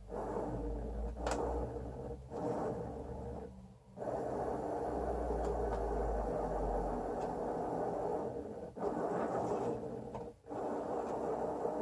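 Electric motors of the Excalibur Mirage chess computer's robotic mechanism whirring as they drive the electromagnetic head across the board. The whir runs in several stretches of one to five seconds, split by brief pauses and the odd click as the head stops, starts and changes direction.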